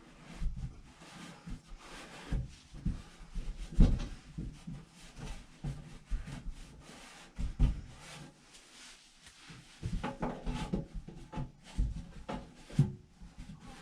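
Irregular knocks, scrapes and rubbing as a dryer vent duct with sharp edges is handled and worked on by hand.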